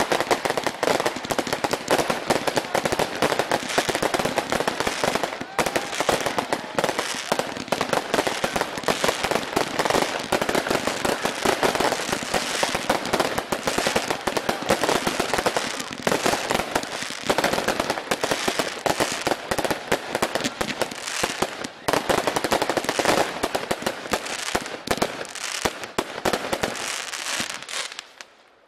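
Consumer firework cakes firing in rapid succession: a dense, continuous crackle of shots launching and bursting, dropping away shortly before the end.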